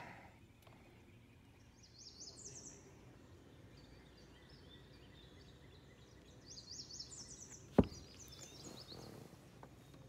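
A songbird singing two short, rapid, high-pitched phrases, about two seconds in and again around seven seconds, with a few fainter notes after. A single sharp click a little before eight seconds is the loudest sound.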